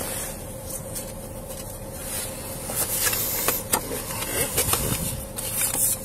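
Cabin of a police patrol car with the engine idling: a steady low hum with a faint constant tone and hiss, and scattered light clicks and taps from about three and a half seconds in.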